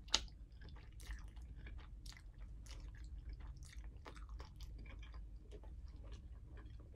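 A person chewing a mouthful of spaghetti close to the microphone: soft, irregular wet clicks of the mouth, with one sharper click just at the start.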